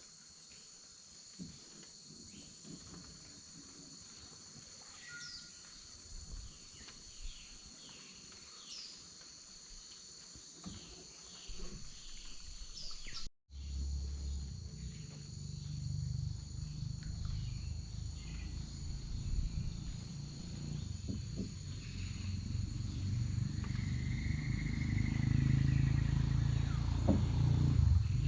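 Rainforest insect chorus, a steady high buzzing, with repeated short falling whistled bird calls in the first half. After a break about 13 seconds in, a low rumble comes up and grows steadily louder, and a held bird note sounds near the end.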